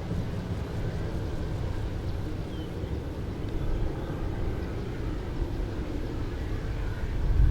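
Low, steady rumble of jet aircraft engines at an airport, growing louder near the end.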